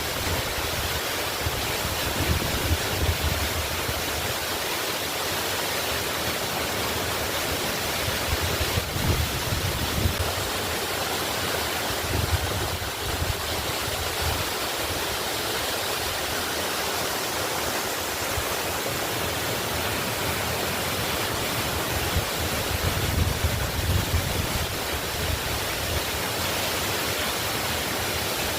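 Waterfall pouring in a steady, even rush, with an unsteady low rumble underneath.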